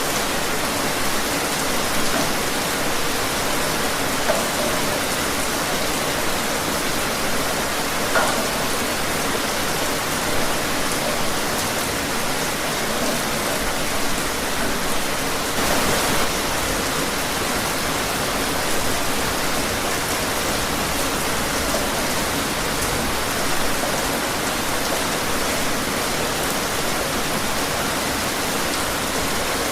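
Steady rain falling, an even hiss with a few sharper drops standing out now and then.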